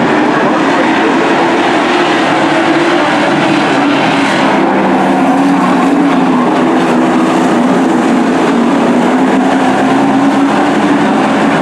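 Engines of a field of race trucks running at speed around the oval, a loud steady drone with several engine pitches wavering up and down together.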